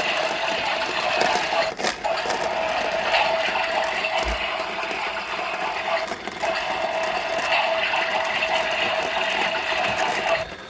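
Battery-powered toy washing machine running an empty wash cycle, its small motor whirring steadily with a couple of brief dips, then stopping abruptly near the end.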